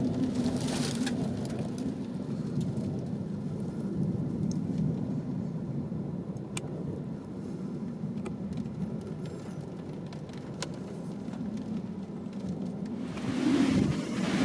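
Violent thunderstorm wind buffeting the microphone: a steady low rumble that swells into a stronger gust near the end, with a few sharp ticks.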